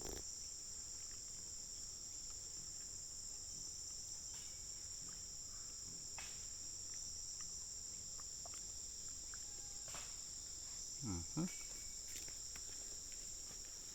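Steady, high-pitched drone of a chorus of Amazon rainforest insects, with a few faint clicks.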